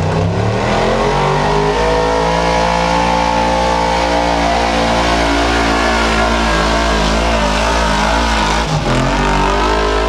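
Pulling truck's engine revving up over the first second, then held at high revs under load with the pitch wavering slightly. It dips briefly about nine seconds in.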